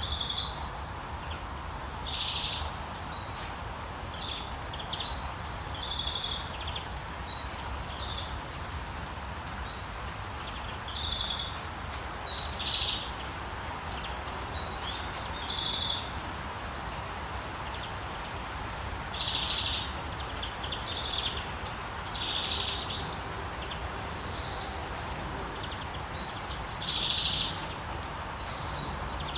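Songbirds chirping in short, repeated calls, a few higher-pitched calls joining near the end, over a steady hiss of falling rain.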